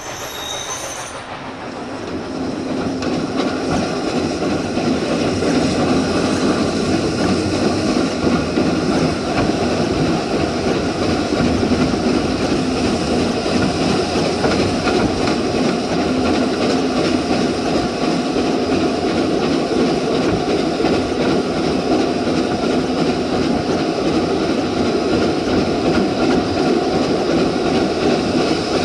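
Steam train running at speed: a steady, loud rumble and rattle of wheels and running gear on the track. It builds up over the first few seconds, after a brief cut in the sound.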